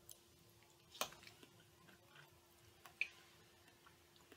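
Quiet chewing and mouth clicks of a person eating pasta, with two sharper clicks about one and three seconds in, over a faint steady hum.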